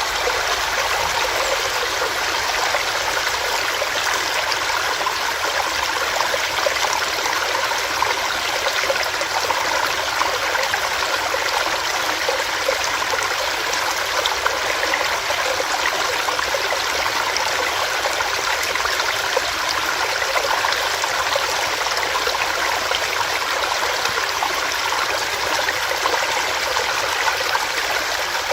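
Small stream running over rocks: a steady rushing babble with fine splashing and gurgling, even throughout.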